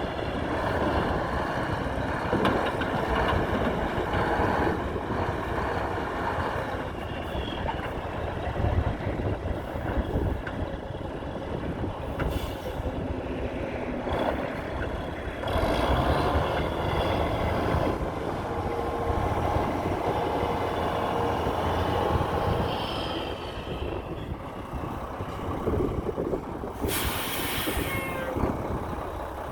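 2001 Mack CH613 semi truck's diesel engine running steadily, the rumble rising and falling at times. Near the end a short, loud air-brake hiss.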